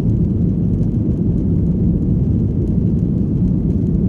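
Steady, loud low rumble of an airliner's engines and airflow as heard from inside the passenger cabin during takeoff.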